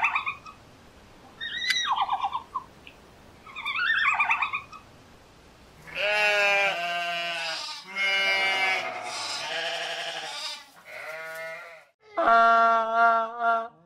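Sheep bleating: several long, wavering bleats from about six seconds in, then a louder bleat near the end. Before them come three short, high, squeaky calls about two seconds apart, from a red panda.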